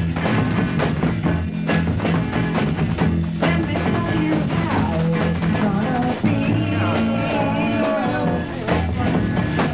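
1960s garage rock band playing an uptempo instrumental dance number: steady drum beat, bass, and electric guitars, with a wavering lead line about halfway through.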